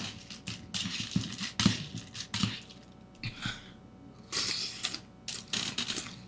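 Irregular short clicks and crackling noises, unevenly spaced.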